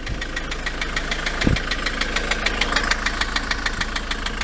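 Ford Transit van engine idling warm, at about 80 degrees, with a steady, rapid ticking knock. The owner cannot say what is causing it. A single dull thump comes about a second and a half in.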